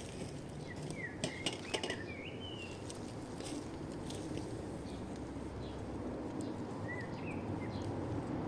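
Short bird chirps, a cluster of them a second or two in and a couple more near the end, with a few sharp clicks, over a steady low rushing background.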